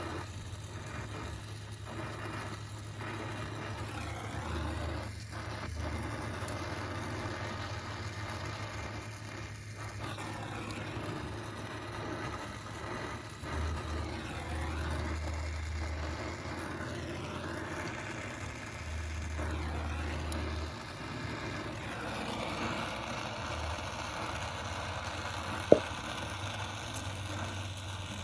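Brazing torch flame burning steadily while air-conditioner copper pipe is brazed, a continuous rushing noise, with one sharp click near the end.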